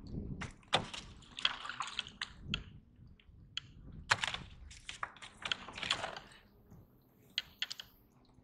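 Irregular clicks, knocks and rustles from handling a caught triggerfish and gear on a fishing kayak.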